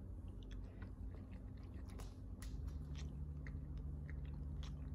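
A person chewing breakfast food close to the microphone: scattered small crisp crunches and clicks over a low steady hum.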